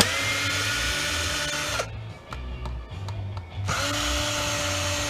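Power drill running in two bursts, each spinning up quickly to a steady whine: about two seconds, then after a short pause another second and a half. It is being used to drive out screws while taking apart the jump-starter's casing.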